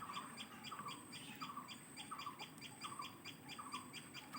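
Small birds at a leaf-stitched nest calling, faint and rapid: evenly repeated high ticking chirps about three a second, with a lower short chip note under them. These are typical of parent birds giving 'tik tik' alarm calls near their nestlings.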